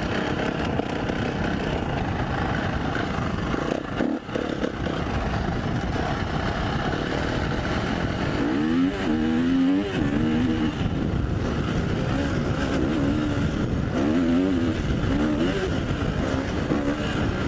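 KTM 350 SX-F dirt bike's single-cylinder four-stroke engine being ridden hard, revving up and down through the gears, with a brief drop in revs about four seconds in and its pitch sweeping up and down several times in the second half.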